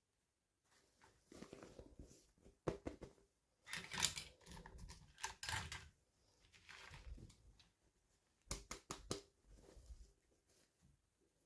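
Toy packaging being handled and opened: rustling and crinkling with sharp clicks and taps, in irregular short bursts.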